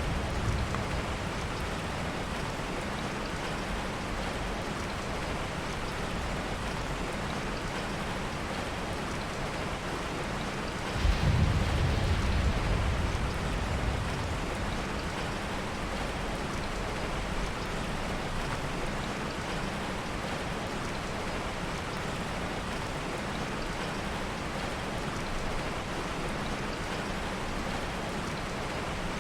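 Steady heavy rain. About eleven seconds in, a low rumble of soft thunder swells suddenly and fades over a few seconds.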